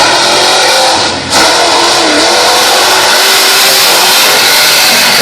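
Vehicle engine revving hard at high throttle, very loud. It eases off briefly about a second in, then goes back on the throttle.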